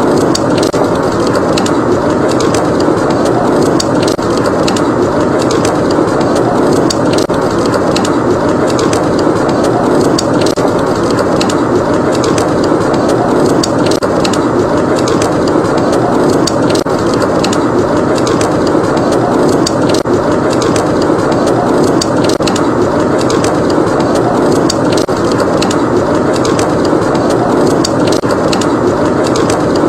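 Log fire in a fireplace crackling with many small pops, over a steady rush of blizzard wind.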